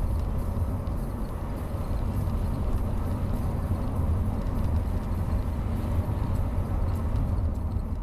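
A car driving along a road: a steady, low rumble of road and engine noise.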